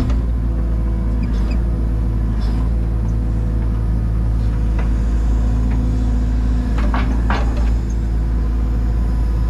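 Takeuchi TB285 compact excavator's diesel engine running steadily, with a few sharp knocks about seven seconds in.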